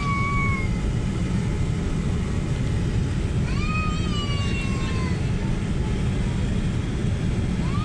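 Airliner cabin noise on approach: a steady low rumble of engines and airflow, with a whine that rises, holds and then sinks away, about every four seconds.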